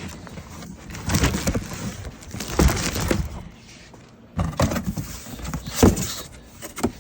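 Boxes of fireworks being pulled out and shifted by hand: bursts of knocking, scraping and rustling, with a few sharper clunks.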